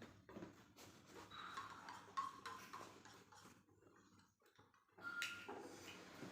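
Faint, irregular light taps of a spoon against the container while the water, dishwashing liquid and red food colouring are stirred together, pausing for about a second before resuming faintly near the end.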